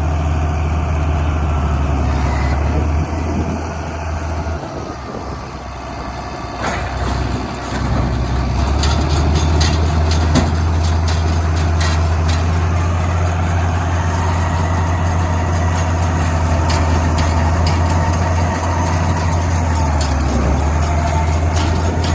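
A farm machine's diesel engine runs steadily. A few seconds in it eases off, then picks back up. In the middle it is joined by a quick run of clicks and rattles.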